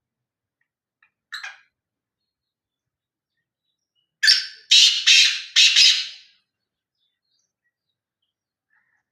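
Black francolin (black partridge) calling: a single short harsh note, then a loud grating phrase of four quick notes.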